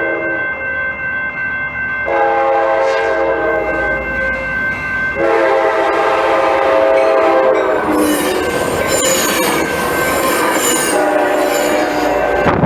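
Train horn sounding a series of long blasts, with a short gap between each. High-pitched wheel squeal from the rails joins in during the second half.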